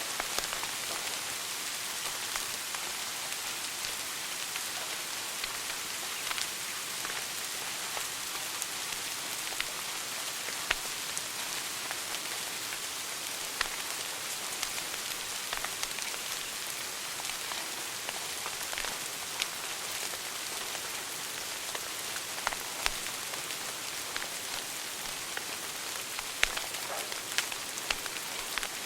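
Wood fire burning in a fireplace: a steady hiss with scattered sharp crackles and pops at irregular moments.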